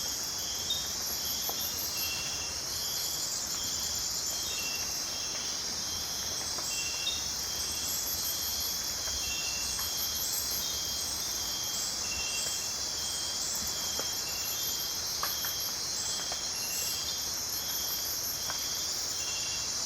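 Rainforest night insect chorus: a steady high buzzing of crickets and other insects, with short pulsed chirping calls repeating over it every second or so.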